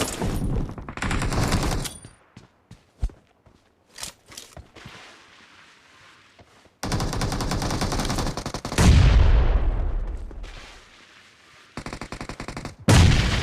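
Video game gunfire: bursts of rapid automatic fire with scattered single shots between. A louder, deeper blast about nine seconds in dies away over a couple of seconds.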